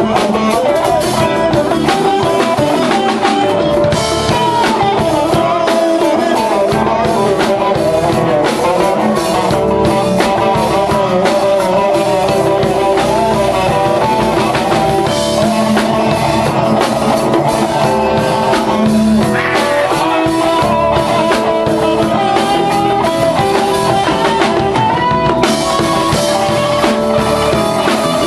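Band playing an instrumental passage with drum kit, bass, keyboards and electric guitar at a steady beat.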